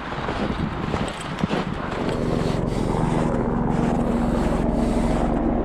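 A heavy motor vehicle's engine running steadily on a nearby road, coming in about two seconds in and slowly growing louder. Before it, a few footsteps crunch in snow.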